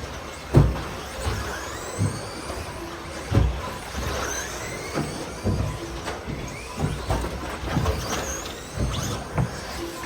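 Several RC stadium trucks racing: small motors whine upward in pitch as they accelerate, over a run of dull thuds from trucks landing on the track, the loudest about half a second in.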